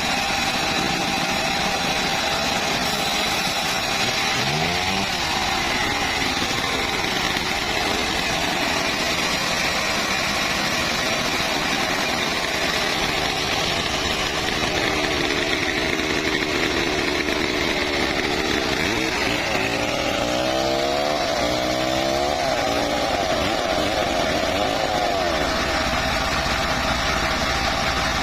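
Engine-driven wood saw running steadily. Its pitch wavers up and down a few seconds in and again for several seconds past the middle, as the engine's speed changes.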